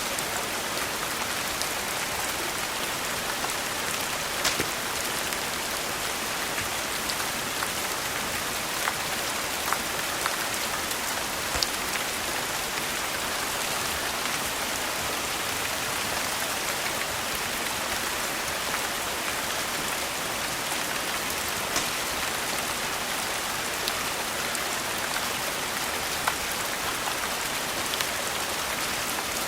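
Steady rain falling on a surface, an even hiss, with a few sharp clicks scattered through it.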